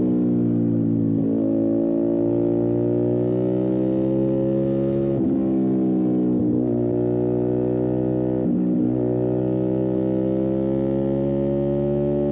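Motorcycle engine running steadily under throttle, its note rising slowly, broken by four brief dips in pitch.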